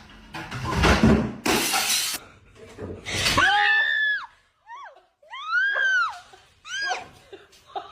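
A crash or clatter like something breaking, then several high cries that rise and fall in pitch.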